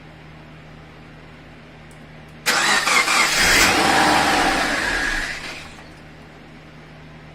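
Subaru Forester's refreshed flat-four boxer engine starting about two and a half seconds in and running loudly for about three seconds before dying away.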